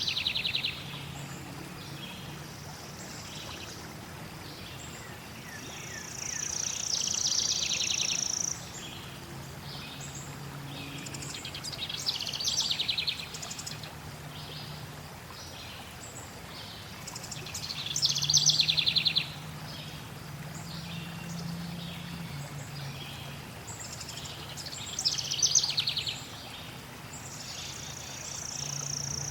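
Forest songbirds singing short trilled phrases, a burst every few seconds, over a low steady background hum.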